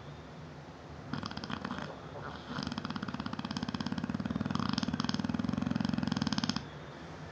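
Neapolitan Mastiff snoring in its sleep: a short fluttering snore about a second in, then a longer, louder fluttering snore of about four seconds that stops abruptly.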